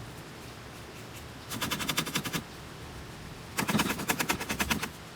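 Two bursts of rapid clicking, about a second each, as the pleated HEPA filter of an SWDK handheld vacuum is worked clean of dust.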